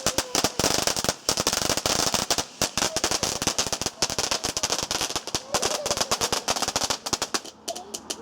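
Garden firework crackling: a dense, rapid run of sharp cracks that thins out and stops near the end.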